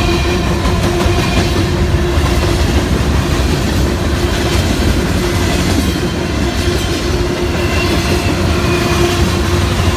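Freight train rolling past: a steady heavy rumble of steel wheels on rail, with clickety-clack over the rail joints and brief faint wheel squeals.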